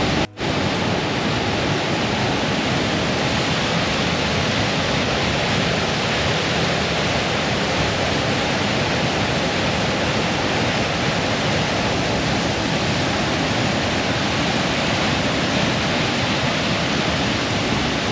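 Waterfall rushing steadily and loudly at close range, a strong flow of water, with a momentary break just after the start.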